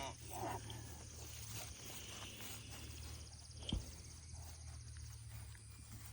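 Faint outdoor ambience: a fine, high insect trill in the middle, under a steady low hum, with one soft thump a little past halfway.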